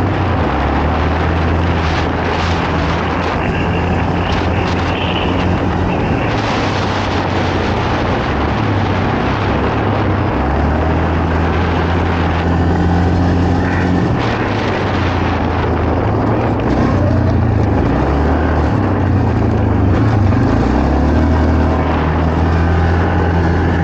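Quad bike (ATV) engine running hard off-road, its pitch stepping up and down every few seconds as the throttle changes, over a constant rushing noise.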